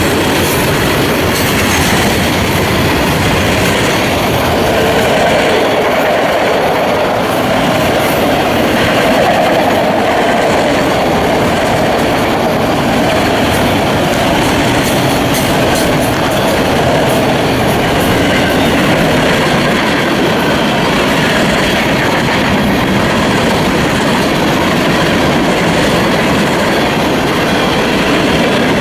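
Florida East Coast freight train's cars rolling past close by: a loud, steady rumble and rattle of steel wheels on rail, with occasional faint clicks.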